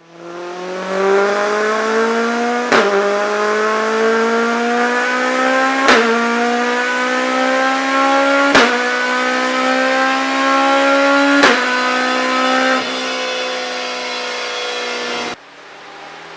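Jaguar Mk2's 3.8-litre straight-six engine under load, its pitch climbing steadily, broken four times by a short sharp click where the pitch dips a little and climbs again. Near the end the pitch eases off, and the sound cuts off suddenly.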